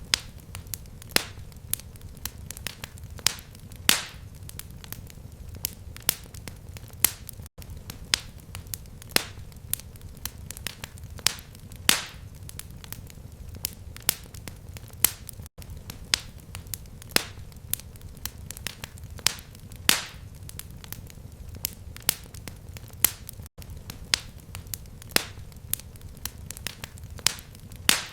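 Fireplace fire crackling: frequent sharp pops and snaps, irregular and several a second, over a steady low rumble of the flames.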